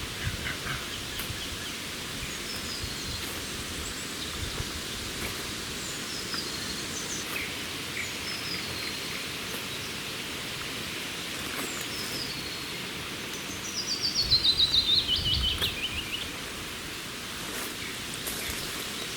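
Forest songbirds singing: scattered short chirps and calls, and about three-quarters of the way through a louder song, a quick run of notes falling in pitch. A steady hiss lies under them.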